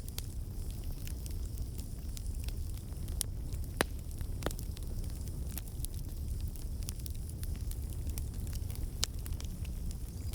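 Campfire burning: a steady low rumble of flames with irregular crackles and occasional sharper pops from the burning wood.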